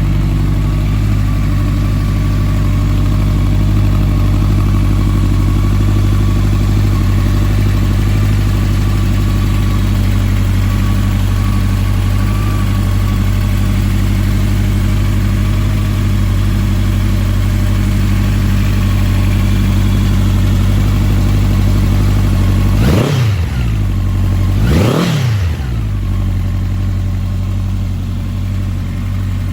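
Honda CB1100EX's air-cooled inline-four idling steadily through a Moriwaki four-outlet aftermarket exhaust. Late on it is blipped twice, about two seconds apart, the revs rising and falling quickly each time before settling back to idle.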